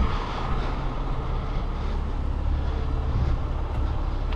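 A heavy truck's diesel engine idling nearby, a steady low rumble.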